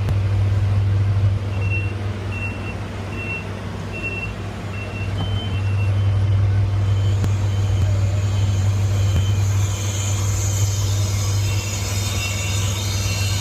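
Crane's engine running steadily, with a high motion-warning alarm beeping a little under once a second. A hiss builds up over it from about halfway through.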